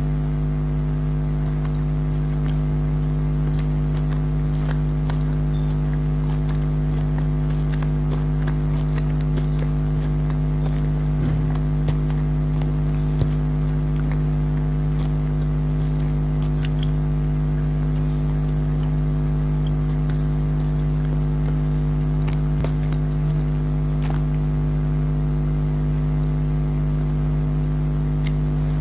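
Chewing and biting into gummy jelly candies: scattered soft wet clicks, over a loud steady electrical hum that runs throughout.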